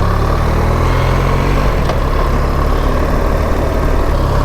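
BMW R 1300 GS's boxer-twin engine running steadily while the motorcycle is ridden, with a steady rush of wind and road noise.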